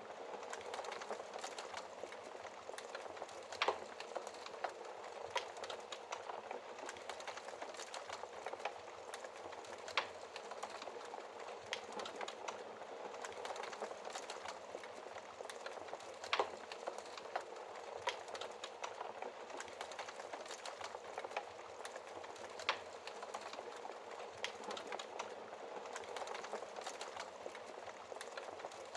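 Wood fire burning in a fireplace: a steady soft crackle full of small ticks, with a few louder pops of the burning logs every several seconds.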